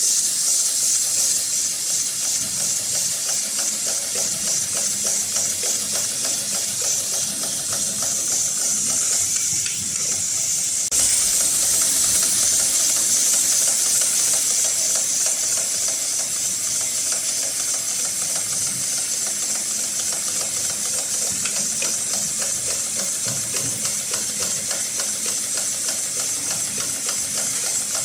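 HighTex 7243CS heavy-duty webbing sling sewing machine running steadily, a fast even stitching rhythm under a steady hiss, with a slight jump in level about eleven seconds in.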